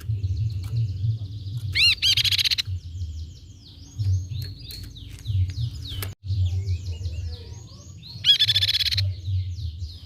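Tepus pipi perak (crescent-chested babbler) calling: series of quick down-slurred chirps, with a loud fast trill about two seconds in and another near the end. A low pulsing hum runs underneath.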